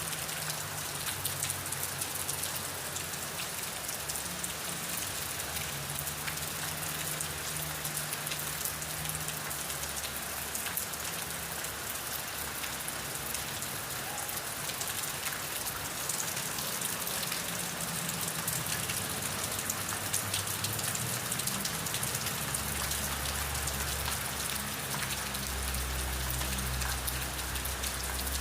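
Steady rain falling, a dense hiss of many drops pattering. A low hum comes and goes underneath and is strongest near the end.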